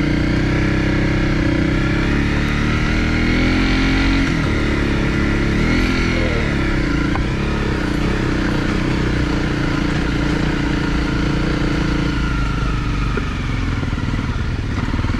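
Single-cylinder Honda CRF250 trail bike engine running under way at steady revs. The revs rise and fall briefly around four to six seconds in and ease off shortly before the end.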